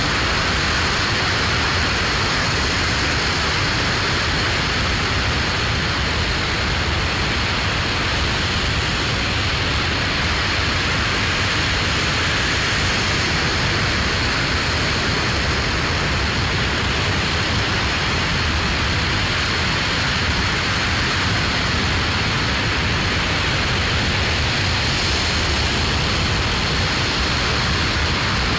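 RS-25 rocket engine, burning liquid hydrogen and liquid oxygen, firing on a test stand: a loud, steady, unbroken rushing noise.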